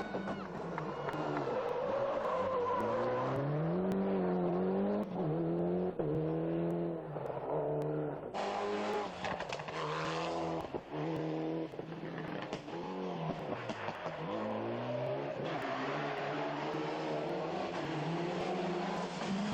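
Rally car engine being driven hard on a stage, its revs climbing and falling again and again as it changes gear and brakes for bends.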